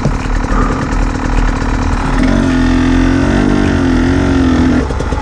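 A 2017 Beta 300RR two-stroke single-cylinder dirt bike engine running under throttle while riding. Its pitch steadies and wavers gently for a couple of seconds in the middle, then drops near the end.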